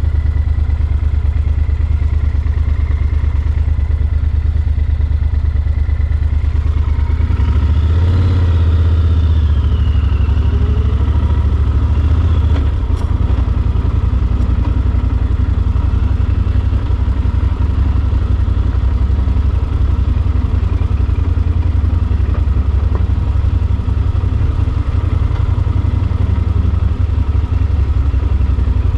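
Yamaha Super Ténéré XT1200's parallel-twin engine running under way, with heavy wind rumble on the microphone. About seven seconds in the engine note rises and then falls back a few seconds later.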